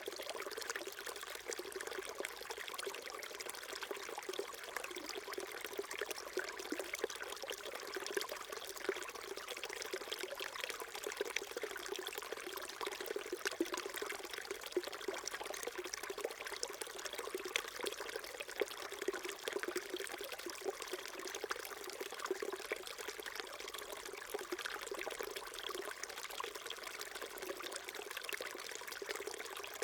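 Small mountain stream flowing and babbling steadily, water trickling and splashing over stones.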